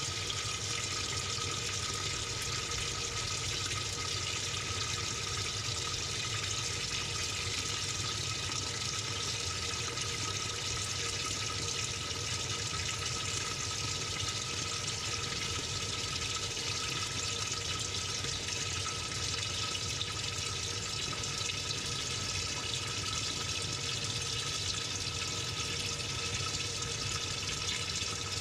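Water running steadily into the tub of a Samsung 6.5 kg top-load washing machine, heard from inside the drum as an even rush with a faint steady hum.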